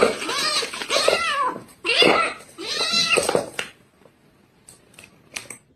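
Domestic cat meowing loudly about four times in quick succession, followed by a few faint clicks near the end.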